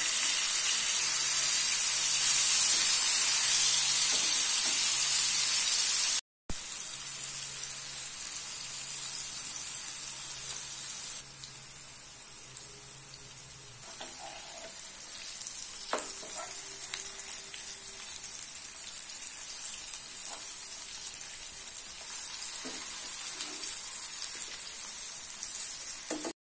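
Masala-coated paneer pieces shallow-frying in oil in a nonstick pan, with a steady sizzle and a few taps and scrapes of a steel spatula. The sizzle is loudest at first, breaks off briefly about six seconds in, then goes on more quietly.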